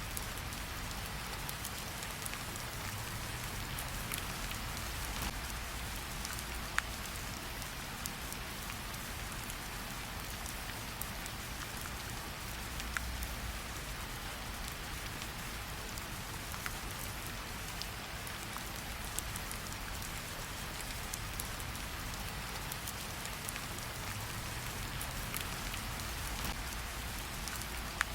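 Steady rain hiss over a low rumble, with a few sharp, isolated pops of a crackling campfire scattered through it, the loudest about 7 seconds in and near the end.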